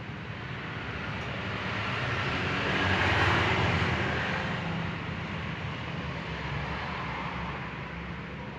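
A vehicle passing: a rushing noise swells to a peak about three seconds in and fades away, over a steady low hum.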